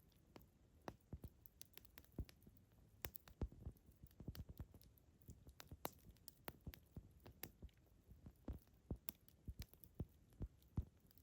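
Wood campfire crackling: irregular sharp pops and snaps from the burning wood, several a second at times, over a faint low background.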